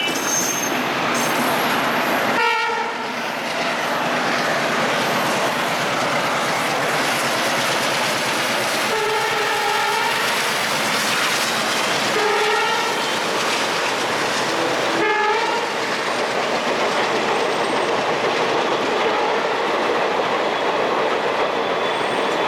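Indian Railways express train of coaches running past on the tracks, with a steady rumble and clatter of wheels over the rail joints. A train horn sounds four times: a short blast a couple of seconds in, a longer one of about a second in the middle, then two short blasts.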